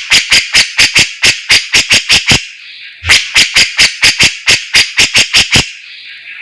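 Songbird known to bird keepers as the 'fighter' singing in a tutor recording: two runs of short, sharp repeated notes, about four a second, with a pause about halfway through.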